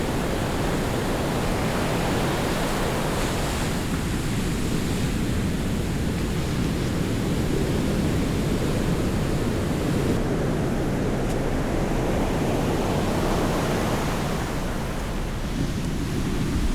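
Sea surf washing on the beach, a steady rushing noise, mixed with wind on the microphone.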